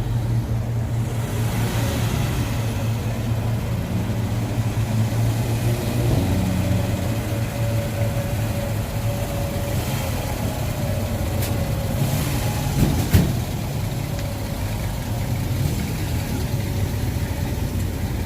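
A motor vehicle's engine running steadily at idle, a low even hum, with a brief louder knock about two-thirds of the way through.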